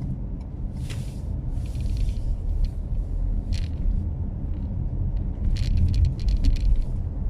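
A car driving, heard from inside the cabin: a steady low engine and road rumble, with short bursts of hissing now and then.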